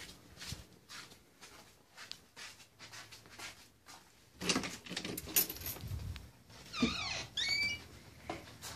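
A sliding door rolling open with a rough rumble, followed about seven seconds in by a few short high squeaks.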